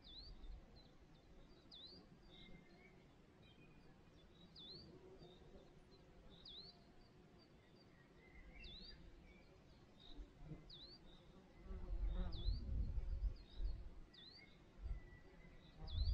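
A bird repeating a short, high chirp that dips and rises in pitch, about every one to two seconds. From about twelve seconds in, low rumbling gusts of wind buffet the microphone, louder than the bird.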